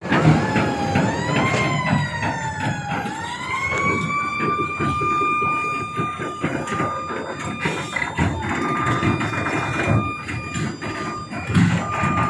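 Warning siren of a moving bucket wheel excavator wailing. Its pitch rises and then holds steady with short breaks, and it starts to fall near the end, over the low rumble and clatter of the travelling machine.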